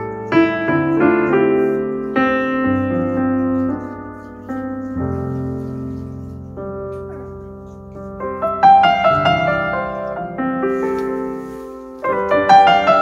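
Background piano music: a slow, gentle piece of struck notes and chords, growing fuller and louder about two-thirds of the way through.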